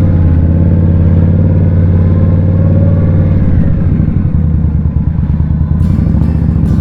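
Indian Scout's V-twin engine running at low road speed, steady, heard from the rider's seat; its note changes about halfway through. A crackling noise joins near the end.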